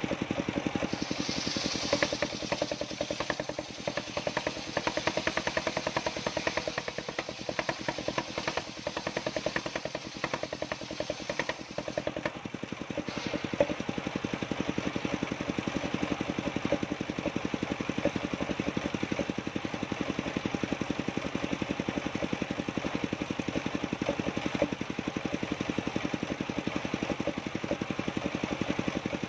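An engine running steadily, with rapid, even firing pulses.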